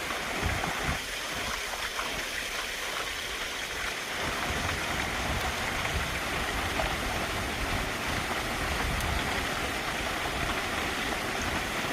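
Mountain valley stream rushing over rocks, a steady hiss of flowing water with an uneven low rumble underneath.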